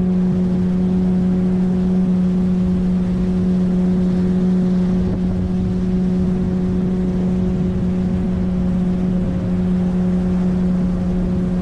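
A 9.8 hp outboard motor running steadily at constant cruising speed, pushing an inflatable PVC boat along a river. It makes an even, unchanging hum with no change in pitch.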